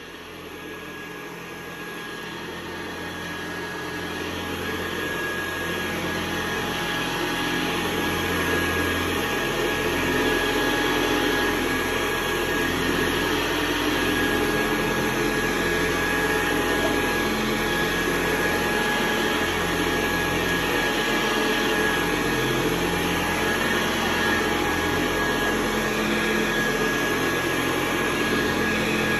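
1974 Hoover Convertible U4047 upright vacuum cleaner running with a steady whirring hum and a thin whine, growing louder over the first ten seconds or so and then holding steady.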